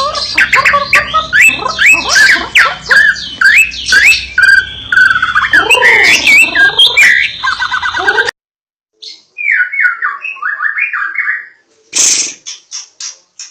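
White-rumped shama (murai batu) singing loudly, a fast run of varied whistled phrases, glides and chattering notes. The song cuts off abruptly about eight seconds in, then resumes more quietly, and a short burst of sharp clicks comes near the end.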